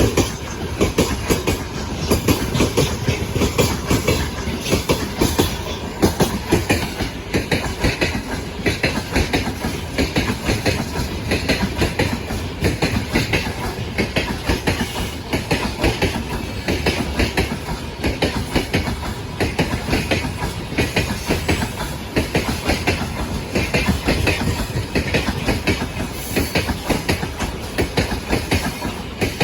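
Freight train wagons rolling past at speed, their wheels clacking steadily over the rail joints in a continuous run of clicks.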